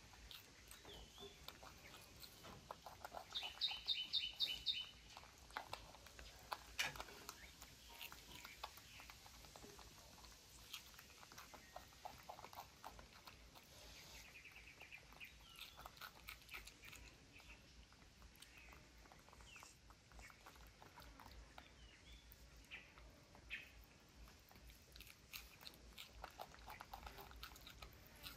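Faint chewing and munching of baby monkeys eating green beans: small irregular clicks and smacks. A short run of about six high chirps comes a few seconds in.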